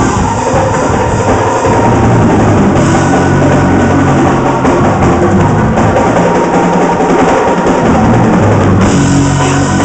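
Loud live praise-break music with a drum kit playing hard, bass drum and snare prominent over sustained low instrumental tones.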